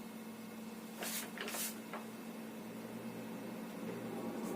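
Two short scratchy strokes of writing about a second in, over a steady low electrical hum.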